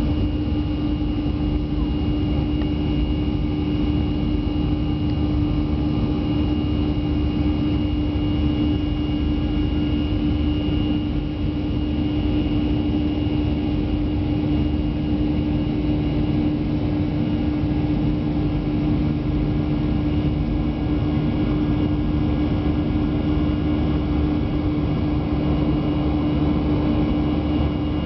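Airliner cabin noise in flight: a steady engine and airflow drone with a constant low hum running through it, heard from inside the passenger cabin.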